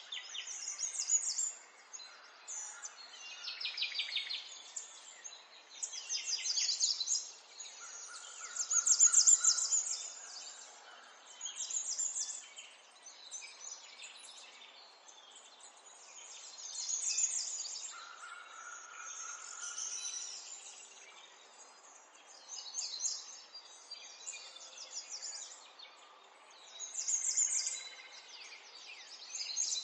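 Birds singing: short phrases of rapid, high chirps and trills every couple of seconds, over a faint steady hiss.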